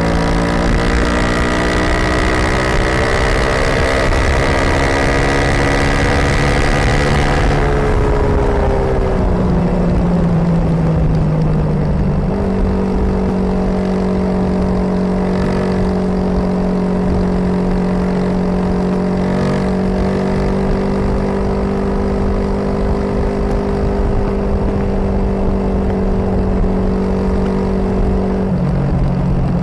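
Suzuki DR250S single-cylinder four-stroke engine with an aftermarket Dominator R exhaust, riding along: the note rises as it pulls for the first several seconds, falls away about eight seconds in as the throttle eases, then holds a steady cruising note for most of the rest, with a low rumble underneath.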